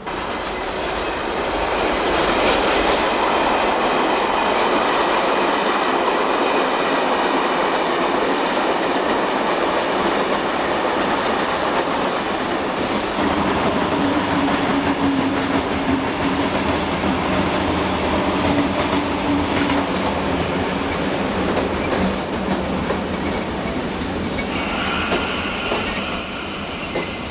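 A train running along the rails, with heavy wheel-on-rail noise that comes in abruptly at the start. A steady low tone sounds through the middle, and high thin ringing tones come in near the end.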